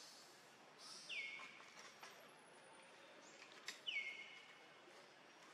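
Bird calling twice, about three seconds apart: each call is a whistle that drops quickly and then holds one steady note. A few short, high chirps come in between the calls, over a faint outdoor hiss.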